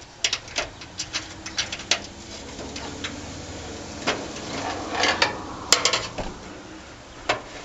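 Irregular metal clinks, taps and knocks as a replacement barbecue burner is handled and fitted onto the gas feeding nozzles inside the grill box.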